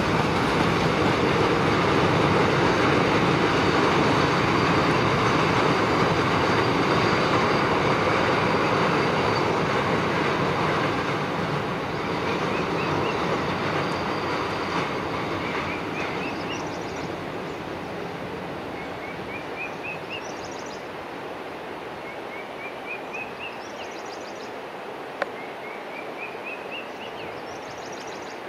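A train rumbling over a steel girder bridge, loud for about the first ten seconds and then fading away as it recedes. As it fades, a bird calls a short rising run of notes, repeated every few seconds.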